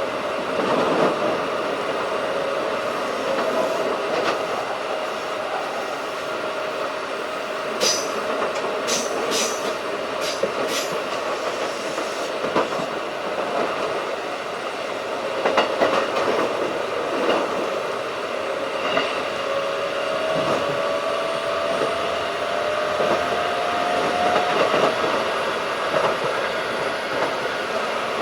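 Keikyu 1500 series field-chopper electric train running at speed: a steady rumble of wheels on rail, with a few sharp clicks about a third of the way through and a whine that rises in pitch later on.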